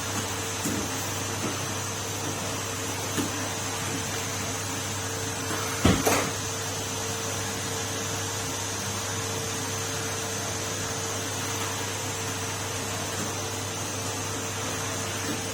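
Numatic Henry canister vacuum cleaner running steadily with a constant hum and a high whine, with a sharp knock about six seconds in and a few lighter bumps.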